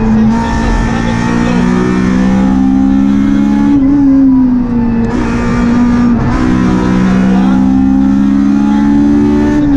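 Rally-prepared Honda Civic 1.6 four-cylinder engine at high revs, heard from inside the cabin under full acceleration. The pitch climbs steadily and drops back at gear changes about four and six seconds in.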